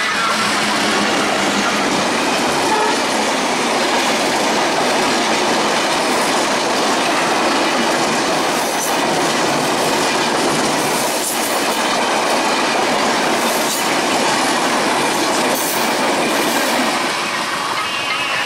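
Diesel-hauled express train passing at speed: a steady, loud rush of coaches and wheels with clickety-clack over the rail joints, and a few brief high wheel squeals midway. It eases slightly near the end as the last coach goes by.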